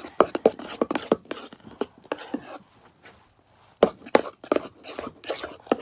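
Spoon knocking and scraping against a bowl while stirring a thick slime mixture of glue, shaving cream and baking soda: a quick, irregular run of clicks and taps, with a short pause near the middle.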